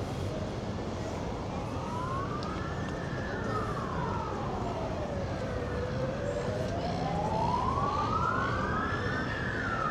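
Emergency vehicle siren on a slow wail, rising and falling in pitch twice, peaking about three seconds in and again near the end, over a low hum of city traffic.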